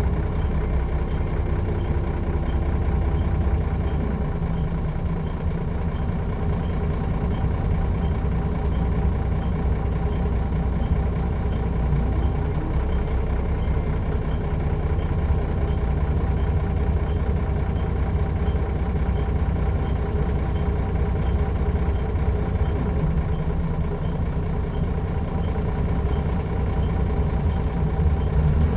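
Scania L94UB bus's diesel engine running steadily, heard on board, with a faint regular ticking about one and a half times a second.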